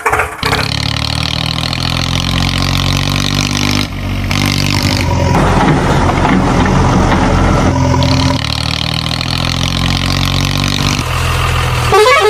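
Vehicle engine running steadily, its pitch changing abruptly several times: about half a second in, around four and eight seconds, and again about eleven seconds in.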